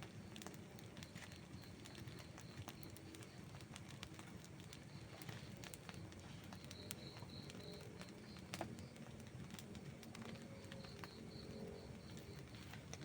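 Outdoor wood campfire crackling with scattered small pops, a few sharper ones a little past the middle, over a faint low rush. A high, evenly pulsed chirping comes and goes in the background.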